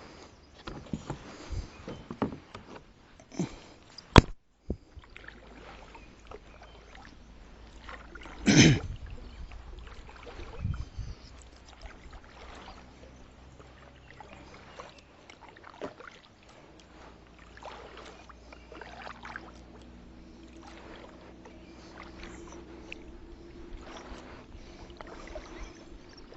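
Scattered knocks and handling noises in a fishing kayak, with one sharp knock about four seconds in and a louder, longer thump about eight and a half seconds in. A faint steady hum comes in during the second half.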